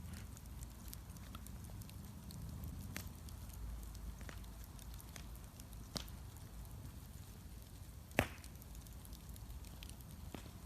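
Wood bonfire burning with a low steady rumble and scattered crackles and pops, one loud snap about eight seconds in.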